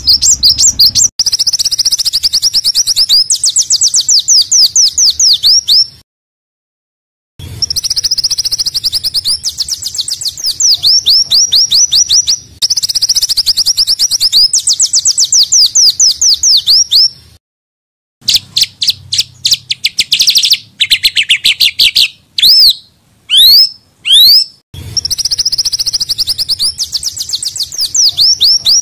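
Small songbirds singing rapid, harsh trills: long runs of fast, high-pitched downward-sweeping notes in phrases of several seconds that cut off abruptly into short silences. A few louder, separate sweeping whistles come about two-thirds of the way through.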